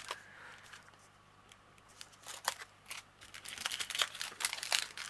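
Small plastic bags of diamond painting drills being handled: light crinkling and clicking, busier and louder near the end.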